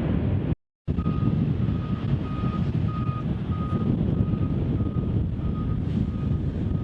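Wind buffeting the microphone with a low rumble throughout, broken by a brief cut in the sound about half a second in. From about a second in, a vehicle's reversing alarm sounds a steady single-pitch beep a little under twice a second.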